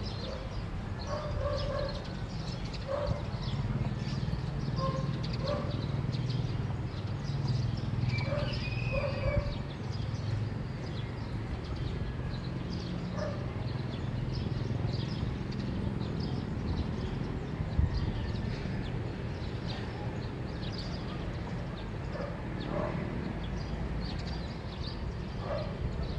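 Early-morning neighbourhood ambience: birds chirping and a dog barking in the distance, over a steady low rumble.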